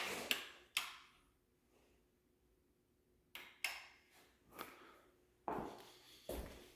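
Cabinet doors being opened and shut: a few sharp wooden knocks and clacks, a pause of about two seconds, then more scattered knocks.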